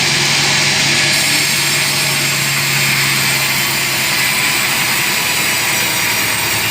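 Sawmill saw running loud and steady, a dense rushing noise over a low hum that weakens about four seconds in.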